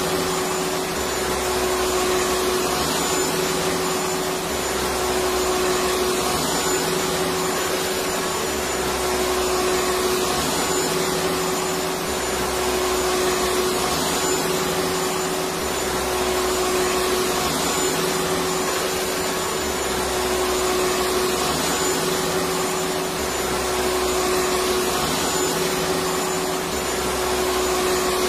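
Electric vacuum cleaner running continuously: a steady rushing of air with a constant motor hum, and a gentle rise and fall in level every few seconds.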